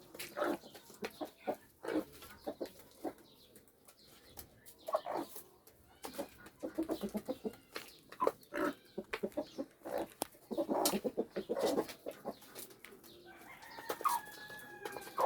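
Chickens clucking in short, scattered calls, with a longer call holding a steady pitch near the end.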